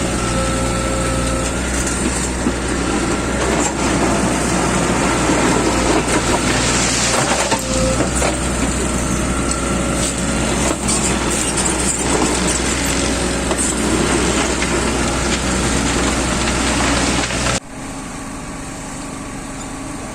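Engine-driven track maintenance machinery running steadily, with a low hum and rattling clatter. About three-quarters of the way through it cuts off abruptly to a quieter steady hum.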